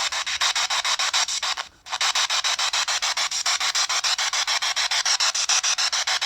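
Ghost-hunting spirit box sweeping through radio frequencies: hissing static chopped into rapid even pulses, about ten a second, with a brief dropout a little under two seconds in.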